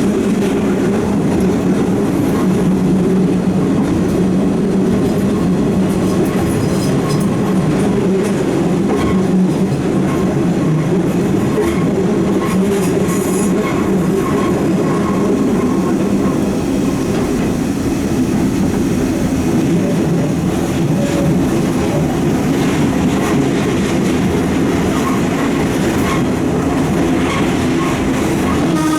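Eizan Electric Railway electric train running steadily on the Kurama Line, heard from inside the car: a continuous rumble of wheels and running gear with a few faint clicks.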